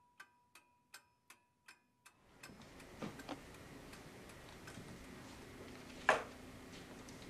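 Regular clock-like ticking, about three ticks a second over a faint steady tone, stopping about two seconds in. It gives way to the low hiss of a room recording, with a few faint knocks and one sharp click about six seconds in.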